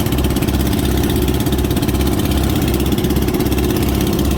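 Motorboat engine running steadily with an even, low pulsing throb.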